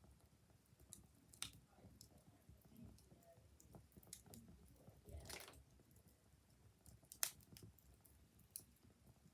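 Wood fire crackling faintly, with a few irregular sharp pops, the loudest about seven seconds in.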